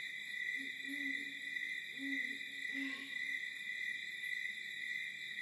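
Night-time wildlife ambience: a steady high-pitched chirring throughout, with three short, low hoot-like animal calls in the first three seconds, the last two about a second apart.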